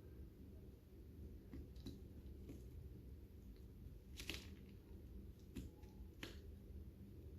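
Lovebirds cracking seeds with their beaks: a few faint, sharp clicks spread out, the loudest about four seconds in, over a low steady hum.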